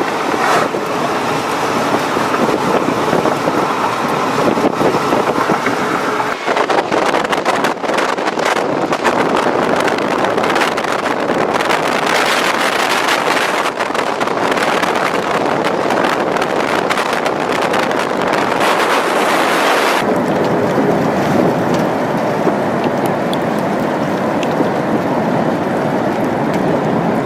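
Strong tornado wind blasting across the microphone: a loud, unbroken rushing noise full of rapid crackling buffets. It changes character abruptly about six seconds in and again about twenty seconds in.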